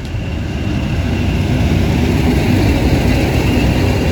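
A pair of Balfour Beatty Class 20 diesel locomotives running light engine towards the crossing. Their engines make a deep rumble that grows steadily louder, with a faint steady high whistle over it.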